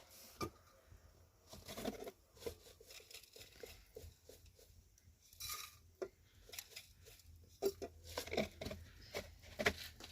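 Irregular small knocks, scrapes and rustles of objects being handled, with a few louder knocks near the end.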